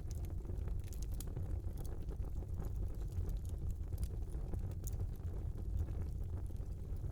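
Fire burning in a small fireplace: a steady low rumble with scattered sharp crackles and pops every second or so.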